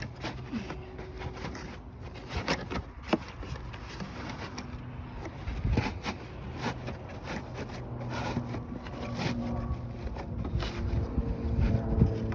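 Scattered clicks, knocks and scrapes of hand tools and metal hardware being worked at a car battery's terminals and hold-down. A steady low hum comes in near the end.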